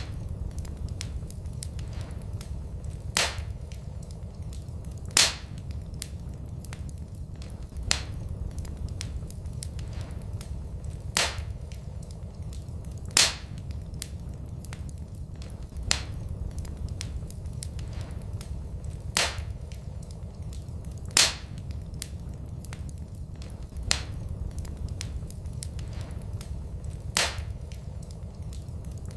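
Wood fire in a fireplace crackling: a steady low rumble with many small crackles and a loud sharp pop every two to three seconds.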